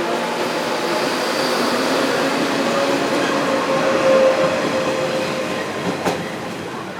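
JR Kyushu electric train moving along the station platform, a whine of several steady pitches over the running noise. One sharp click comes about six seconds in.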